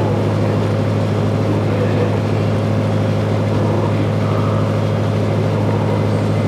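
Sightseeing boat's engine running steadily, heard from on board as a constant low drone.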